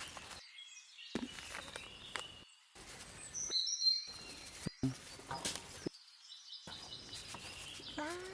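Birds chirping, with short high whistled notes, along with a few brief knocks.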